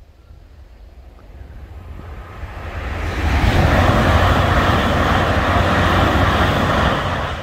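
Great Western Railway Class 387 electric multiple unit passing over the crossing: a rushing of wheels on rail and air that builds over the first few seconds, is loudest from about halfway in, and drops away near the end.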